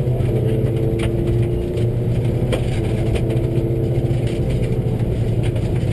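Subaru rally car's flat-four engine pulling hard at speed on a dirt stage, its note rising and falling gently with throttle. Two passes of the same stage are heard at once, one in each stereo channel. Sharp ticks come now and then from gravel striking the car.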